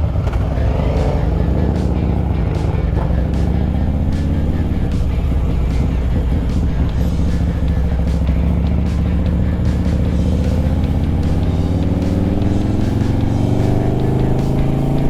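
Motorcycle engine running under way as the bike is ridden through traffic, its pitch rising in the last few seconds as it speeds up.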